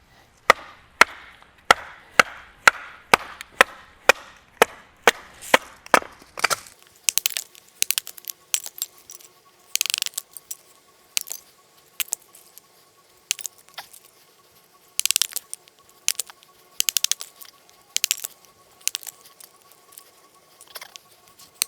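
Firewood being chopped into small pieces with a blade: steady strokes about two a second for the first six seconds or so, then irregular sharp cracks and splits of wood.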